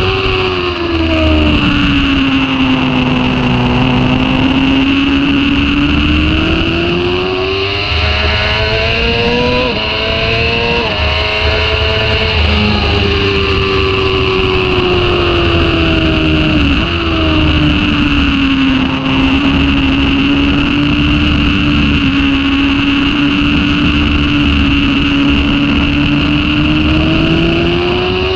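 Sport bike engine at speed heard from the bike itself, its note sliding down and rising again as it slows and drives on, with sudden steps in pitch about ten seconds in and again around seventeen seconds that go with gear changes between third and fourth. A steady rush of wind noise runs under it.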